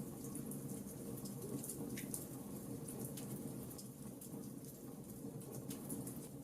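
Wood fire of burning logs, crackling with irregular sharp pops over a steady low rush of the flames.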